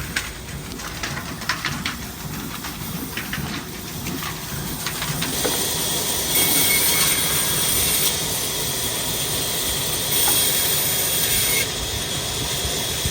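Old 22 hp diesel engine working a wood-cutting machine: scattered clicks and knocks at first, then about five seconds in a louder steady hiss sets in and carries on.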